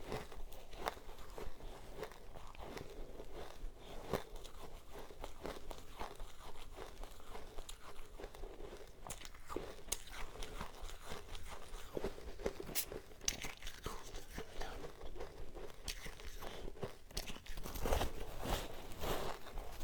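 Close-miked biting and chewing of powdery frozen ice: a dense crackling crunch with many sharp snaps, louder near the end.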